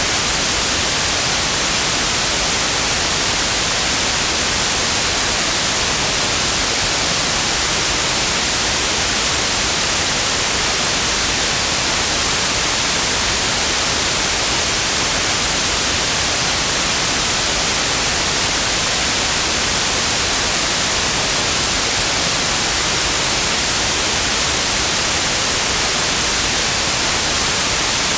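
Steady electronic white noise: an even, unchanging hiss across the whole range, brightest in the highs.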